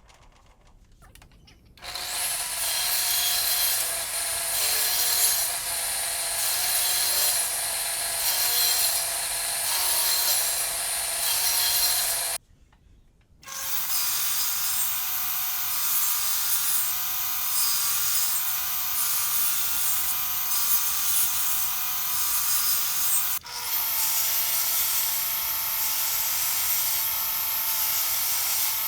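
Power tool working wood: a steady motor whine with a rhythmic cutting pulse about once a second. It starts about two seconds in and stops abruptly for about a second near the middle before resuming.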